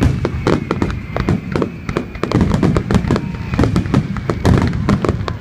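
Aerial fireworks going off in rapid, continuous succession, a dense barrage of bangs and crackles several per second, with a faint whistle near the start.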